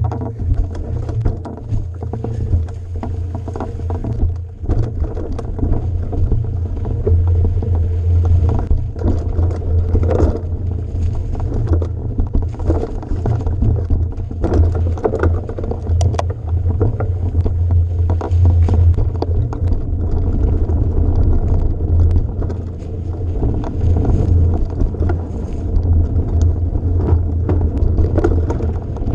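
A vehicle travelling over rough ground: a steady low rumble throughout, with irregular rattles and knocks.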